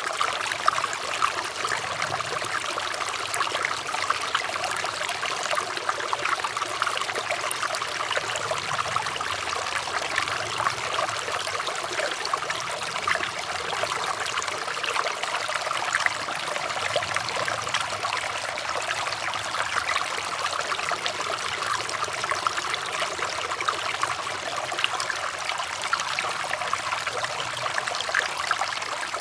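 Flowing water trickling and babbling over stones in a small stream, a steady, even splashing without pause.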